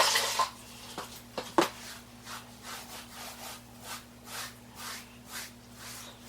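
Damp sponge rubbing over fresh, wet shower-pan mortar to smooth it: a louder scrape at the start, a sharp knock about a second and a half in, then even back-and-forth strokes about two a second.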